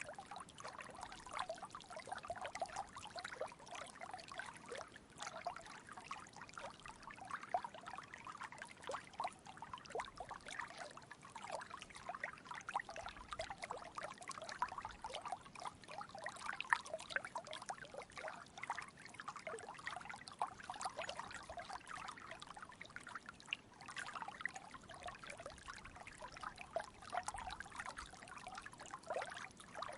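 A small stream trickling and babbling steadily: a dense, unbroken run of small splashes of flowing water.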